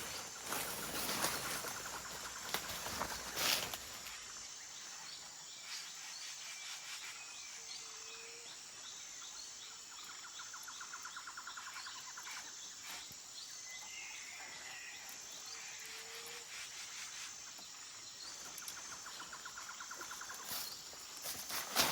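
Forest ambience: a steady high insect drone throughout, with a rapid pulsing trill heard twice and scattered bird chirps. A few sharp knocks come in the first few seconds and again near the end.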